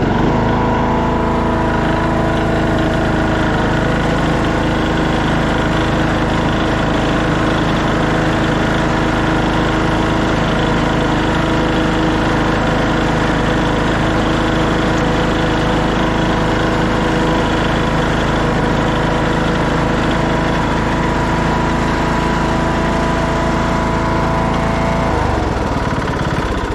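2014 Craftsman T1600 lawn tractor engine running steadily under load as the tractor climbs a hill on its variable-speed drive, pulling it without trouble: the transmission is good. Near the end the engine note drops slightly.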